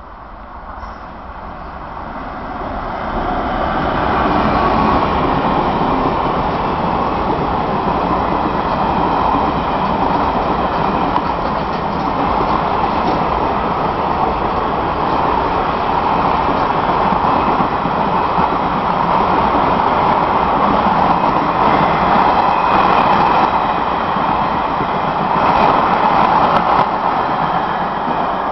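Train running on the rails, its noise building over the first four seconds and then holding loud and steady.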